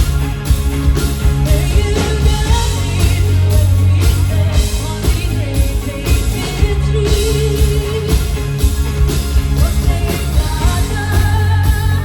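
Rock band playing live with a singer, a steady drum beat and heavy bass.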